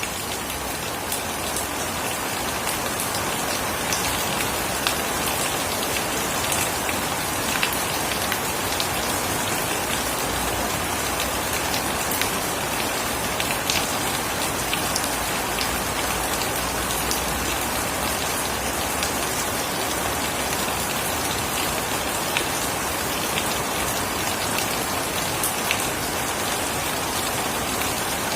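Steady heavy rain falling, with many sharp drop ticks against a dense, even patter.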